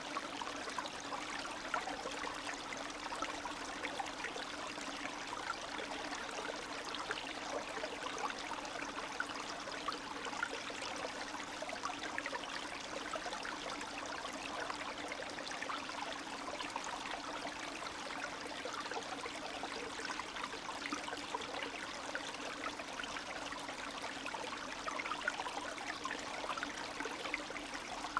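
Spring meltwater stream running and trickling steadily over stones, with a dense patter of small splashes.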